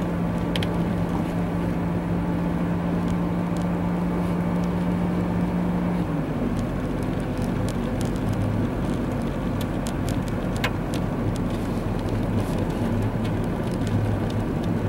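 Car driving on a snow-covered road, heard from inside the cabin: a steady engine and road drone whose pitch shifts about six seconds in.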